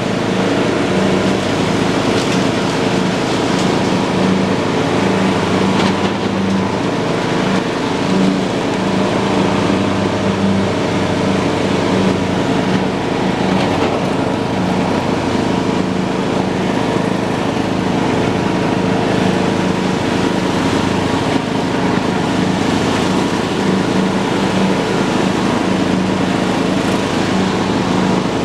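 John Deere lawn tractor running steadily at a constant engine speed while mowing, its engine hum and the noise of the cutting deck unbroken throughout.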